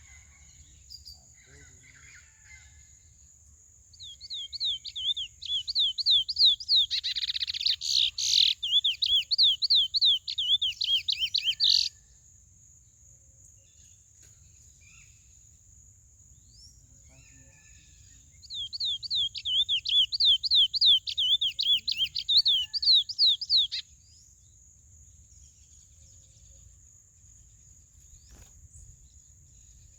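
A caged curió (chestnut-bellied seed finch) sings two bursts of song, each a fast run of repeated high, sweeping notes. The first starts about four seconds in and lasts about eight seconds; the second comes later and lasts about five. A short noisy burst breaks into the first run.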